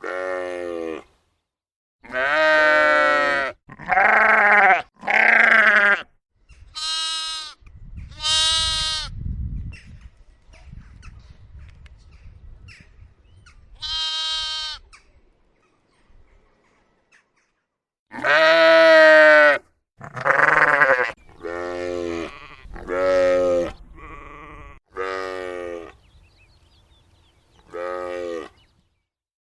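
Sheep and lambs bleating: a series of separate calls, each about a second long, with a few higher, thinner calls among the lower ones.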